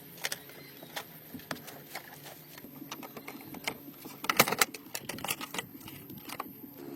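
Irregular sharp clicks and light taps, with a quick flurry of louder clicks about four and a half seconds in.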